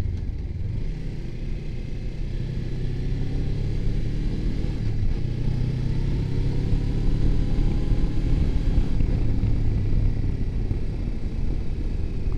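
Suzuki V-Strom 250's parallel-twin engine running under load up a steep winding road, heard from the rider's position. Its note rises and falls gently with the throttle, over a steady low rumble of wind and road noise.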